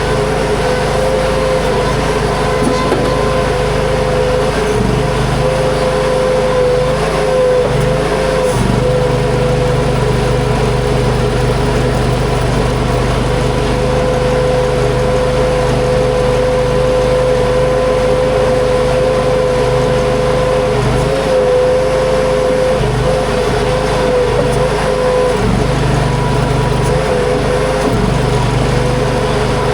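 Huayee LHY480 mini skid steer's engine running steadily at working speed with a steady whine, the sound shifting slightly several times as the machine works.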